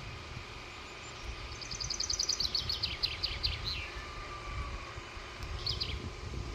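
A songbird sings a fast trill of about a dozen high notes that fall in pitch as it goes. A shorter call follows near the end, over a low rumble.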